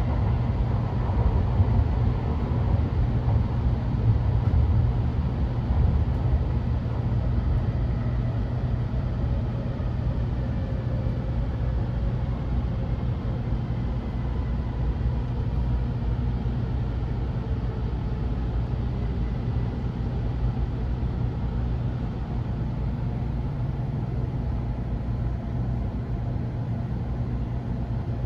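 Inside a Nishi-Kyushu Shinkansen N700S train running at speed: a steady low rumble. A faint whine falls slowly in pitch over the first dozen seconds.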